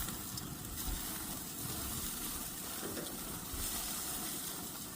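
Goat and chicken skewers sizzling over the fire on a grill: a steady hiss, with a low rumble underneath.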